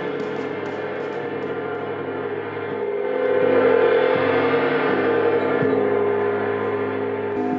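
Sustained ringing of large metal percussion: many overlapping steady tones that swell to a peak about three and a half seconds in, then slowly fade.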